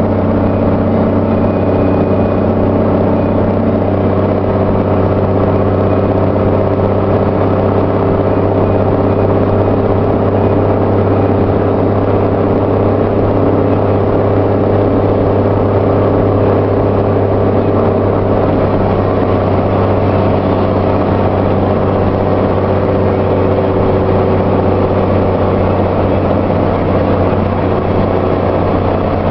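Car engine idling steadily, its exhaust rumbling low and even, with no revving.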